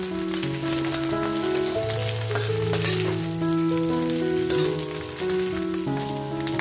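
Cabbage and cauliflower sizzling as they fry in hot oil in a pan, with a spatula stirring them. Background music of held, changing notes plays over it.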